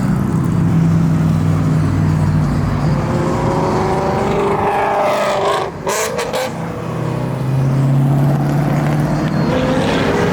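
Car engines running at low speed as cars drive past one after another. About four seconds in, one accelerates with a rising pitch, and a steady low engine drone takes over near the end.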